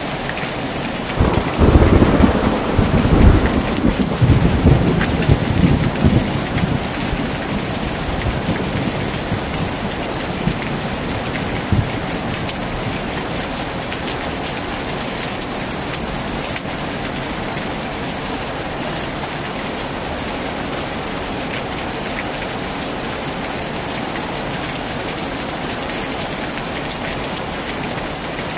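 Heavy rain falling steadily, with a loud thunderclap about a second in that rumbles and fades away over the next several seconds.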